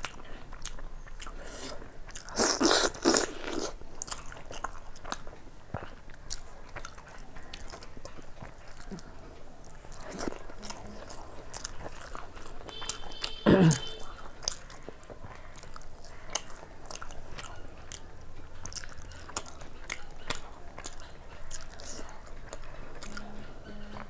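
Close-up chewing and mouth sounds of a person eating rice and chicken curry by hand: a steady run of wet clicks and smacks, with a louder crunchy stretch about two to three seconds in and another brief loud sound about halfway through.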